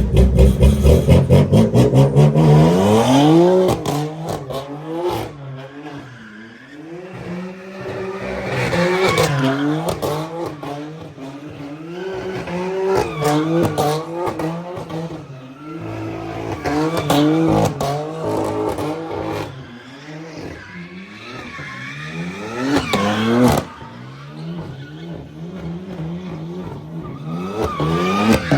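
A car engine revved hard again and again, its pitch climbing and dropping about six times, with tyre squeal, as a car is spun in circles.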